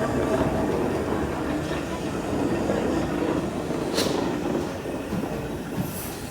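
A train running on the line, a steady rumble that slowly fades, with one sharp click about four seconds in.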